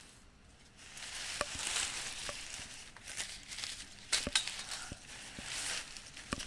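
Canopy tent being handled during teardown: rustling and crinkling of the canopy fabric, with a few sharp metallic clinks from the steel frame tubing.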